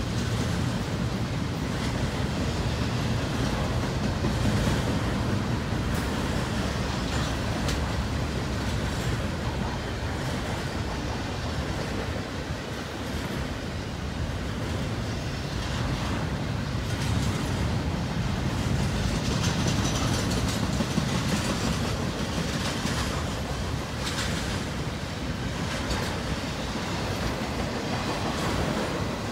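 Double-stack intermodal container well cars rolling past: a steady rumble of steel wheels on rail, with a faint click now and then from the wheels.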